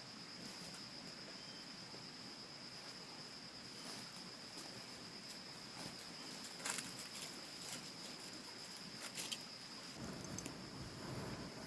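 A steady, high-pitched insect trill, faint over a soft background hiss. A few short clicks or knocks come about seven and nine seconds in, and the trill breaks off near the end.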